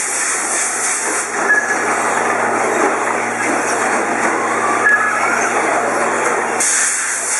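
Radio-controlled 2wd short-course racing trucks running on a dirt track: a steady hiss of motors and tyres, with brief higher whines about a second and a half in and again near five seconds.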